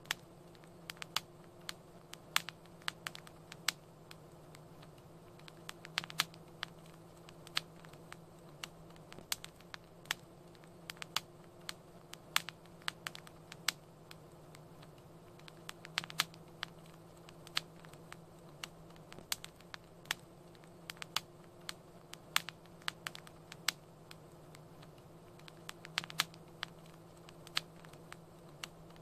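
Wood fire crackling: irregular sharp pops and snaps, several a second, over a steady low hiss with a faint hum.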